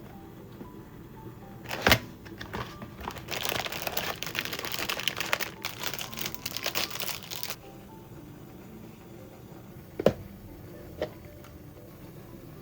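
Food-prep handling noises over soft background music: a sharp click about two seconds in, then about five seconds of dense crinkling and rustling, then a sharp knock and a lighter one near the end.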